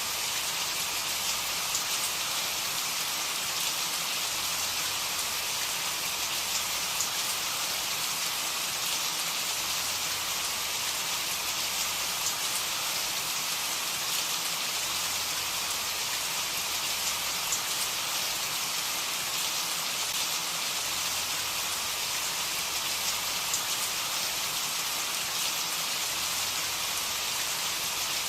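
Steady rain falling, an even hiss of many drops with faint scattered patter, no thunder.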